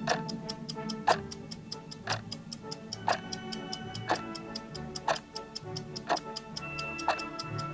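Clock ticking sound effect for a countdown timer: a strong tick once a second with lighter ticks between them, over background music with held notes.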